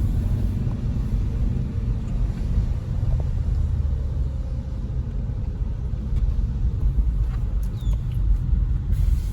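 2014 Hyundai Veloster Turbo's 1.6-litre turbocharged four-cylinder idling steadily, heard from inside the car as a low rumble. It is idling evenly and no longer jumping, a sign that the new ignition coils have cured the cylinder 1 and 3 misfire.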